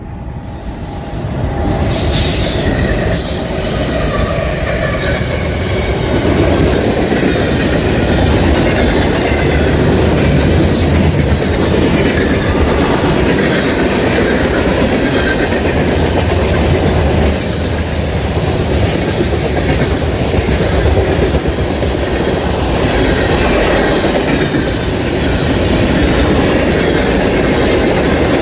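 Norfolk Southern freight train passing close by: a loud, steady rumble of wheels on rail with clacking over the rail joints. Short high wheel squeals come through a few times.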